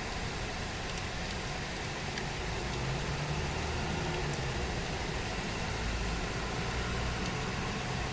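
Steady tropical rain falling, an even hiss with scattered faint drip ticks. A low engine-like hum rises underneath from about three seconds in.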